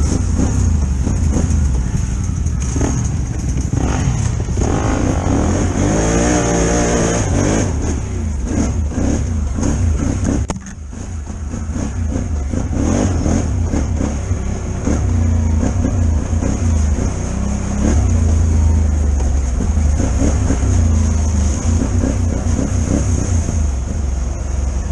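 Can-Am Renegade XXC 1000 ATV's V-twin engine revving hard and easing off over and over as it climbs a dirt hill, with a brief drop in the engine note about ten seconds in.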